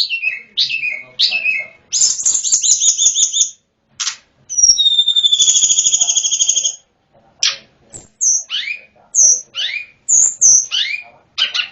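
A sulingan gunung (tledekan gunung) songbird singing its varied, flute-like song. It gives quick falling whistles, then two rapid high trills of a second or two each, around the second and fifth seconds, then a string of separate descending whistled notes.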